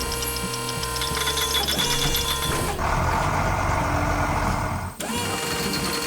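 Cartoon soundtrack of background music mixed with construction-vehicle engine sound effects, switching abruptly to a different sound about three seconds in and again about five seconds in.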